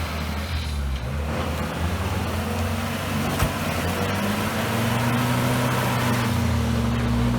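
Off-road 4x4's engine working under load, its revs climbing from about three and a half seconds in and then holding high. A single sharp knock comes just before the revs rise.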